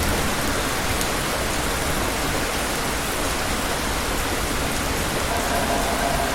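Steady heavy rainfall, an even hiss of many drops. A low thunder rumble dies away at the very start, and a faint steady hum comes in near the end.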